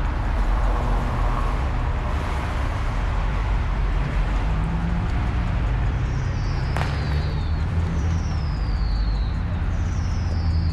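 Motor vehicle engines running in slow traffic: a steady low rumble. From about six seconds in, a high whistle-like tone falls in pitch and repeats about every two seconds, with one sharp click among them.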